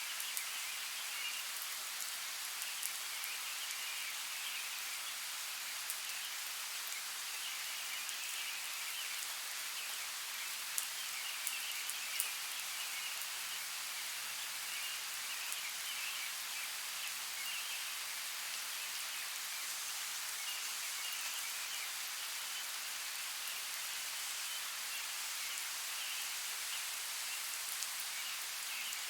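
Steady hiss of water with a few scattered sharp drop-like clicks, the loudest of them a little past the middle.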